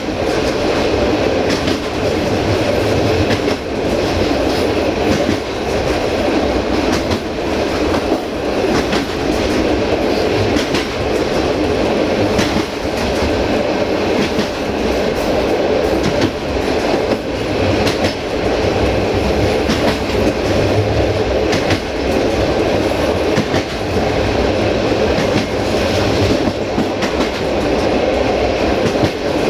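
Passenger train running along the line: a steady rumble of wheels on the rails, with irregular clicks as the wheels pass over rail joints.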